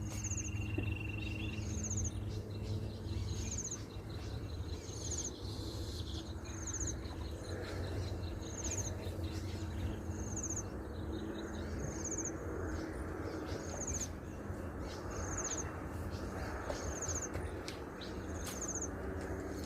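Outdoor wildlife ambience: a short, high call repeats about every second and a half to two seconds. A thin, steady high buzz of insect-like sound runs from about two to six seconds in, over a steady low rumble.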